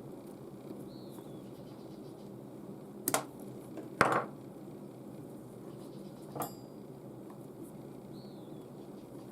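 Sharp clicks or knocks of small hand tools being handled, two close together about three and four seconds in and a fainter one later, over a steady low hum.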